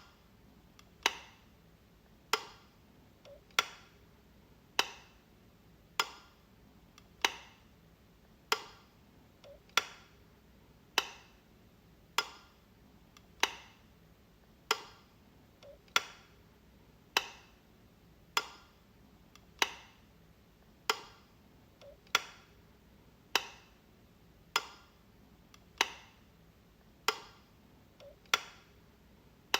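Wall light switch clicking as it is flipped, one sharp click about every 1.2 seconds in an even rhythm, some preceded by a faint softer click.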